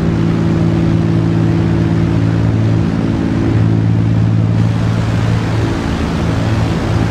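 Steady engine drone: a low, even hum that holds without letup.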